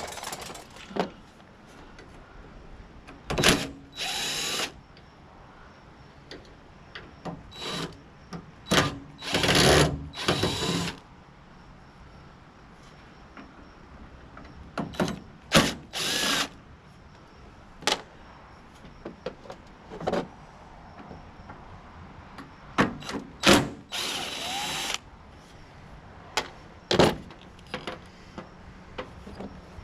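Power drill-driver running in over a dozen short bursts, some with a rising whine as the motor spins up, typical of backing out screws during a teardown.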